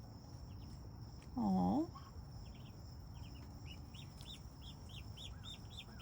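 Muscovy ducklings peeping: short, high calls that start a few at a time and become a quick run of about four a second in the second half.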